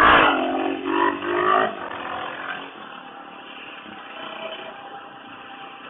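Suzuki DR650's single-cylinder four-stroke engine revving hard as the throttle is opened for a short wheelie. It is loudest for the first second and a half, then eases off to a steadier, quieter run.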